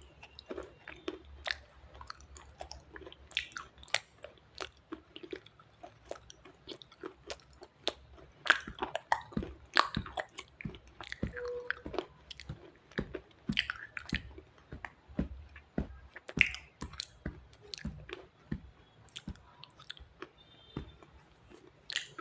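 Close-miked biting and chewing of wet red shale stone: a dense, irregular run of sharp crunches and crackles, some louder snaps among them.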